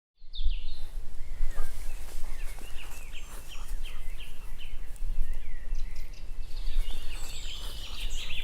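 Small birds singing outdoors: many short, repeated chirps, thickening into a continuous warbling song near the end, over a steady low rumble. The sound cuts in abruptly from silence just after the start.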